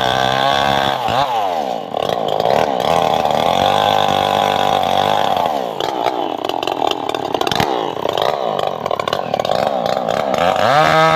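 Two-stroke chainsaw engine revving up and down in repeated throttle blips, held at high revs for a few seconds in the middle.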